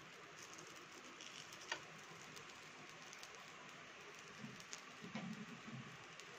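Faint, steady sizzle of a wheat-flour dosa frying in oil on a hot tawa, with a couple of light spatula clicks and a few soft low thuds late on.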